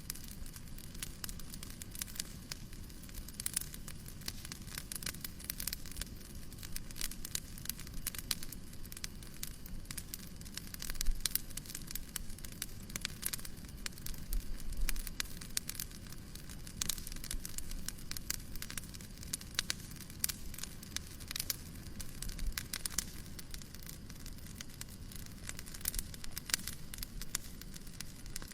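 Wood fire crackling in a fireplace: an irregular run of small pops and snaps over a steady soft hiss, with one louder pop about eleven seconds in.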